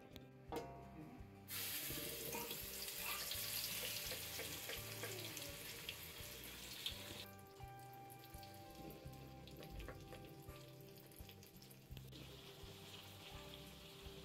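Chilli paste sizzling in hot oil in a wok. It starts suddenly about a second and a half in, then settles to a quieter sizzle after about seven seconds.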